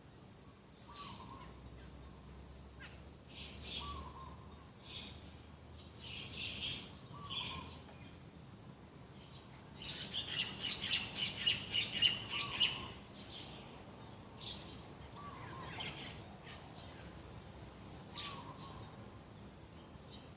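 Several birds calling: a short, low call repeated about every three seconds, scattered high chirps, and a burst of fast, loud chattering a little past the middle.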